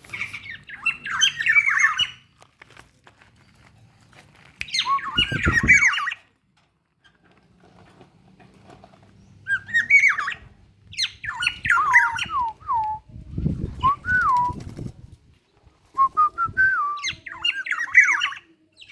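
Black-naped oriole (kepodang) calling in several bursts of quick, sliding whistled and chattering notes, with pauses of a few seconds between them.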